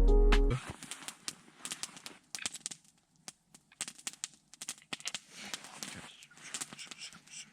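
Campfire crackling, with many sharp, irregular pops and snaps. A short burst of music cuts off about half a second in.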